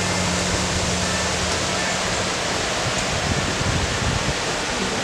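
Steady rushing noise of fast-flowing floodwater in a swollen river, with a low hum under it for about the first two seconds.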